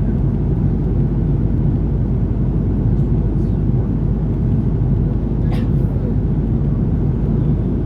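Steady low rumble of an Airbus A330-300 airliner's cabin noise, the drone of engines and airflow heard from an economy seat.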